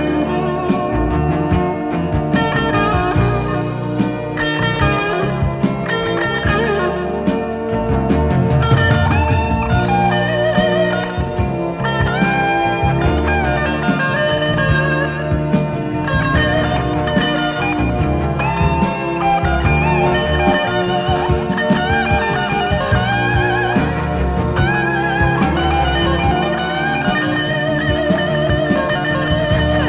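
Instrumental blues-rock music: an electric lead guitar plays a melodic solo full of bends and vibrato over bass and drums, with no singing.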